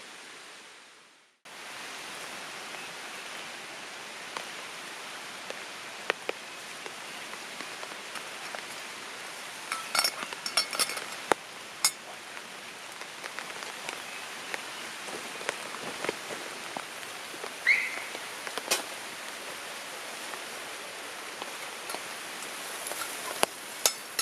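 Steady rain falling, with a scattered series of sharp clinks and ticks, several of them clustered about ten to twelve seconds in.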